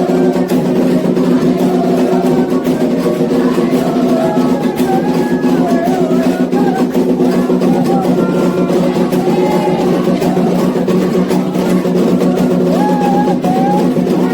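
Candomblé xiré music: atabaque hand drums beating a continuous rhythm under chanted singing.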